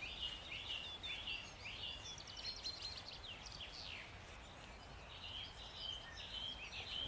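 Faint chorus of small songbirds, several overlapping chirps and short trills with no pause between them.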